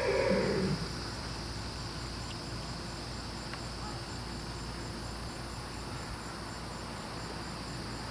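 A horse's whinny tails off within the first second. Then steady insect chirring follows, with a fast, even pulse high in pitch.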